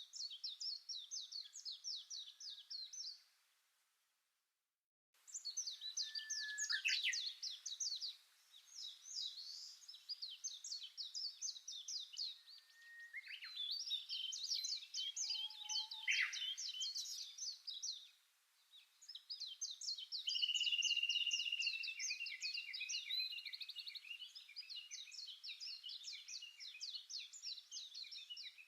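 Small songbird singing long phrases of rapid, repeated chirping notes, with a second of dead silence about four seconds in.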